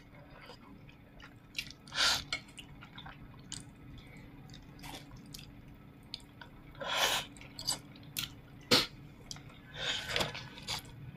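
Someone chewing and gnawing meat off stewed pork ribs: scattered short wet smacks and clicks of lips and teeth, one louder about two seconds in and several between seven and ten seconds, over a faint steady hum.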